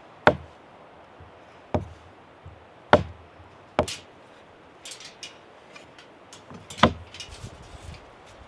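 A knife chopping on a wooden cutting board: five heavy, irregularly spaced strokes, with lighter taps and clicks between the later ones.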